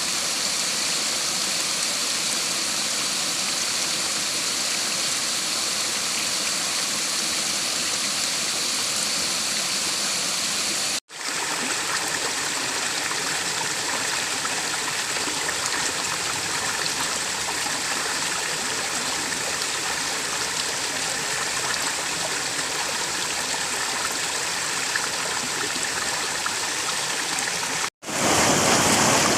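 River water flowing, a steady rush that briefly cuts out twice, about a third of the way in and near the end.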